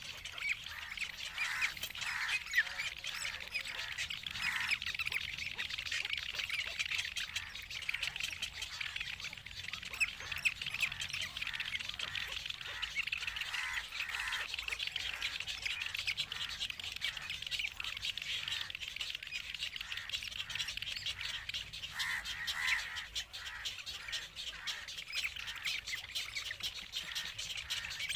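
A brood of nestlings begging for food: a constant, dense chatter of rapid high-pitched cheeping calls from several chicks at once.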